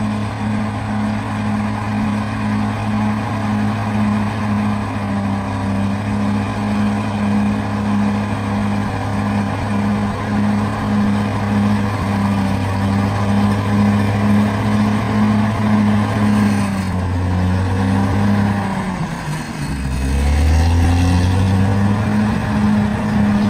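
Bulldozer's diesel engine running steadily at working revs. Near the end its note sags, then climbs back up.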